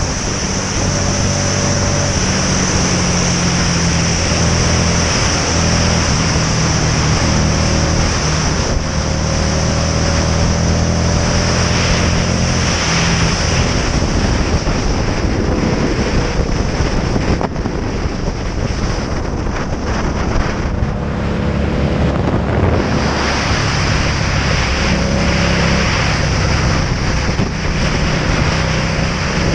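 Motorcycle engine running while riding, with heavy wind rush on the camera microphone. The engine note eases off for a few seconds past the middle, then picks up again.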